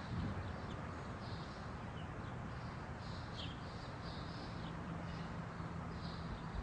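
Quiet outdoor ambience: a steady hiss with small birds chirping briefly now and then in the distance.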